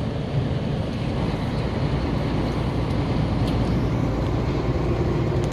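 Steady cab noise of a KAMAZ truck under way: diesel engine and road rumble at speed.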